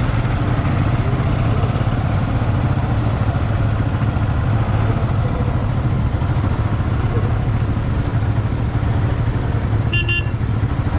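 A road vehicle driving at a steady pace, with a constant low engine and road rumble; about ten seconds in, a vehicle horn gives a short toot.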